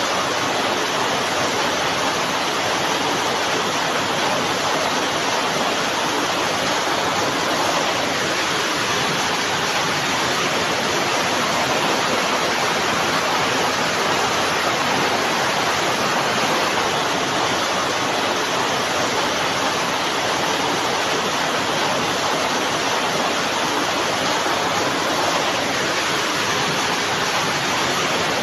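Steady rain, an even unbroken hiss that holds at one level throughout.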